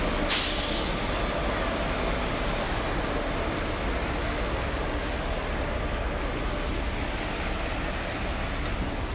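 A local train running with a steady rumble. About a third of a second in there is a short, loud hiss of air that fades within a second.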